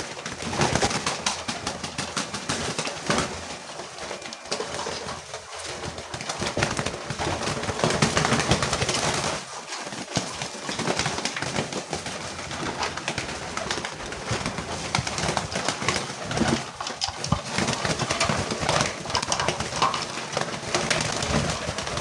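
A flock of homing pigeons cooing and jostling over scattered corn, with a dense, continuous clatter of quick clicks throughout.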